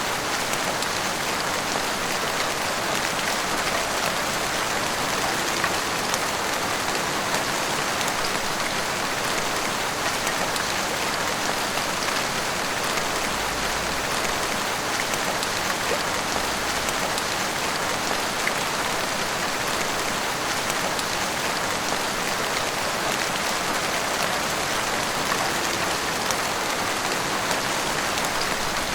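Heavy rain pouring steadily, dense drops pattering on roofs and the street with no let-up.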